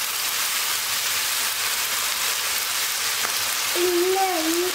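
Diced potatoes, onion and tomato sizzling in oil in a frying pan, a steady hiss, while a silicone spatula stirs them. A short wavering voice sounds near the end.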